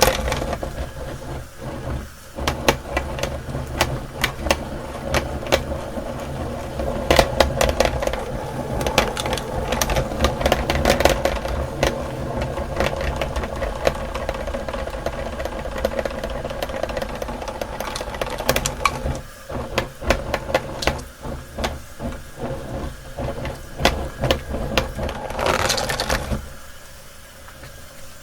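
Electric meat grinder running with a steady motor hum while crushing hard candy, with a dense run of sharp cracks and rattling clicks. The grinding drops much quieter near the end.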